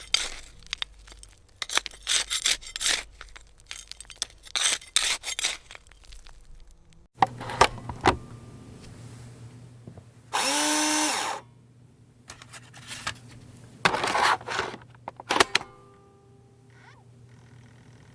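A garden trowel digging into soil in repeated gritty scrapes for about the first seven seconds. Then a disk drive takes a disk with a few clicks over a steady hum, and spins up with a whine lasting about a second, followed by more clicking.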